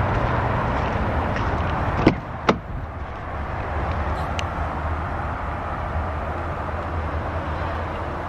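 Steady low rumble of a vehicle running, with two sharp knocks about two seconds in, half a second apart, like a door being shut.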